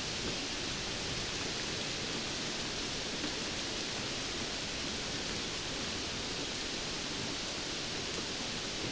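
Steady rainfall: an even hiss that stays at one level throughout.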